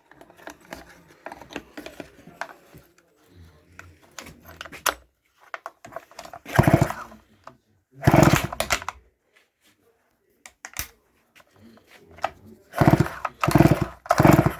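Stihl MS 361 two-stroke chainsaw being pull-started. After a few seconds of small clicks, there are repeated loud bursts of about a second each as the starter cord is yanked. The engine fires on the pulls but does not keep running, with its carburetor freshly refitted.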